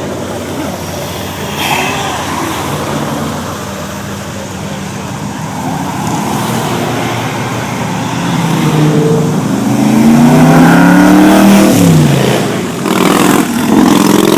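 Car engine accelerating hard. Its pitch climbs for about four seconds, then drops sharply, followed by two short loud bursts of engine noise near the end.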